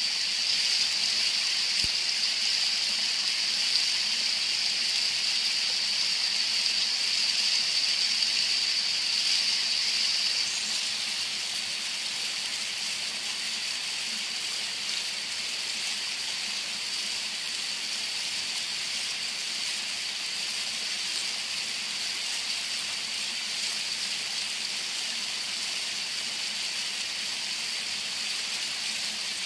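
Waterfall water rushing in a steady, hissy roar that drops slightly in level about ten seconds in.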